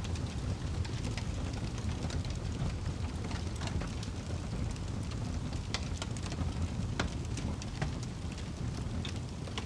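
Wood fire in a fireplace burning with a steady low rush, crackling and popping at irregular intervals, with a few sharper pops in the second half.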